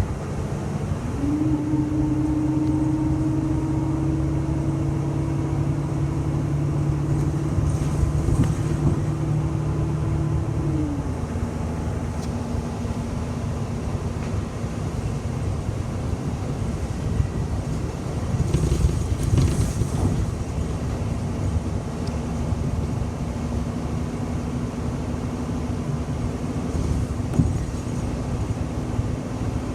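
City bus running, heard from inside the cabin: a low engine and road rumble with a steady drivetrain whine that rises in pitch about a second in, holds, then drops back about eleven seconds in. A few short hissing noises come and go over it.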